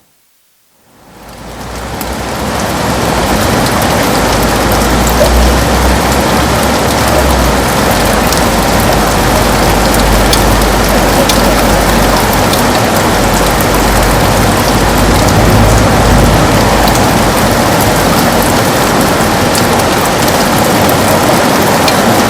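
Heavy rain falling steadily on a window, a dense hiss with fine drop ticks and a low rumble underneath. It dips out almost to silence at the start and fades back in over about two seconds.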